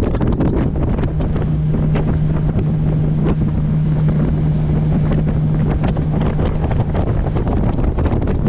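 Wind buffeting the microphone on a moving motorboat, with water noise. A steady low engine hum comes through from about a second in and fades out near the end.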